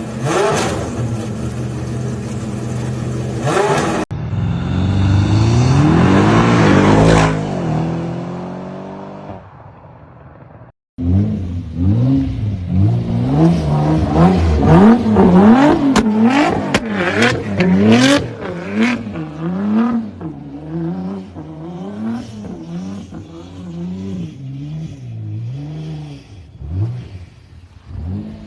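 Supercar engines in a series of clips: a steady engine note, then a car running past with its pitch rising and falling, then after a brief dropout an engine revved over and over in quick blips, with exhaust crackles and pops in the middle.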